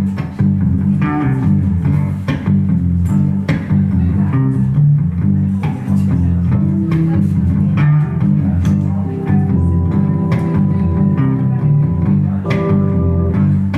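Live band playing an instrumental passage: a prominent electric bass line with guitar and drums, and sustained organ chords coming in during the second half.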